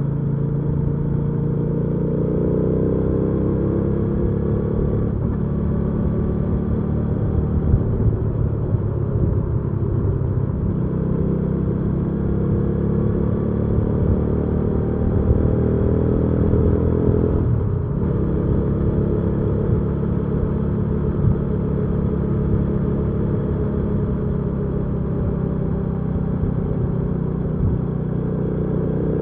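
Hyosung GV300S Aquila's V-twin engine running under way. Its pitch climbs, breaks and drops at gear changes, about 5 s in and again just before 18 s, then holds a steady cruise.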